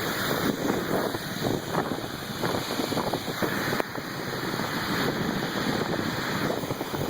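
Wind rushing and buffeting against a phone's microphone through an open car window while driving, over steady road noise.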